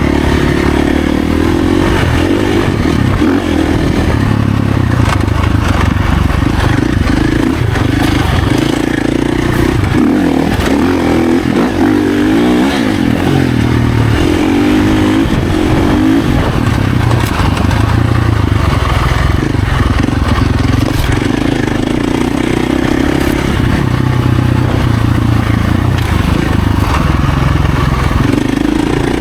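Husqvarna FC450 dirt bike's single-cylinder four-stroke engine running under load while being ridden. Its note rises and falls with the throttle, easing off briefly about a third of the way through.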